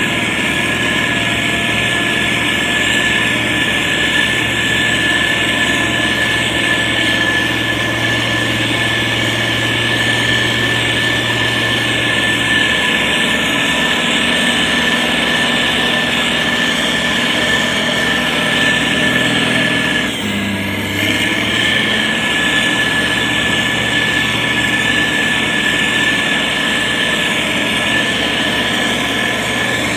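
Diesel engine of a SANY STG190C-8S motor grader running steadily while it works, with a brief dip in level about two-thirds of the way through.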